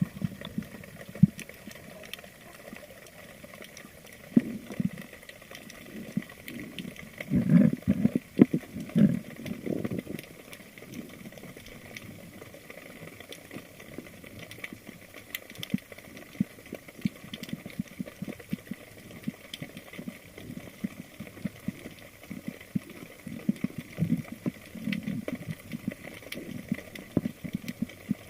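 Underwater ambience picked up by a camera in its housing: a steady faint crackle of tiny clicks, with a few short gurgling bursts of water and bubbles.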